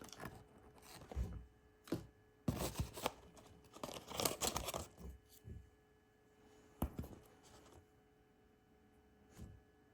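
Plastic toy packaging being torn open and crinkled by hand, in several short irregular rustles and crackles.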